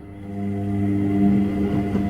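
Washing machine motor starting up: a steady, pitched hum that swells over about the first second and then holds.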